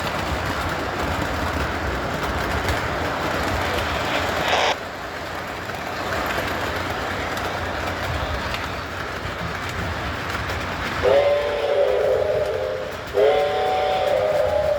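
O gauge model train running with its onboard sound playing: a steady rumble and hiss that drops off abruptly about a third of the way in. Near the end comes two long multi-tone horn blasts, one shortly after the other, the two-long signal for moving off.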